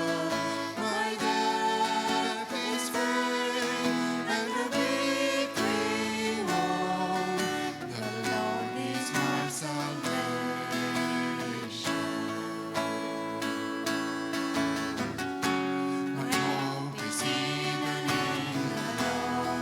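Worship song played on acoustic guitar with singing.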